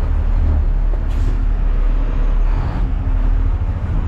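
Front-loader garbage truck's engine running steadily as the truck backs up a short way, a continuous low rumble.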